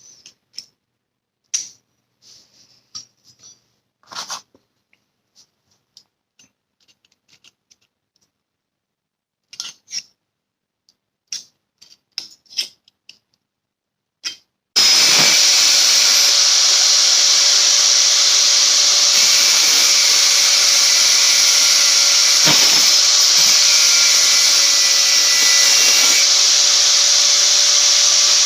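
Scattered light clicks and taps of metal parts and tools being handled, then about halfway in an electric power tool starts up and runs steadily and loudly to the end.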